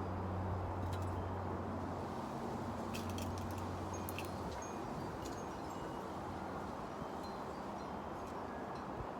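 Steady wind rushing, with a low hum that fades out about halfway through. About three seconds in, wind chimes ring with a cluster of light metallic clinks and brief high tones.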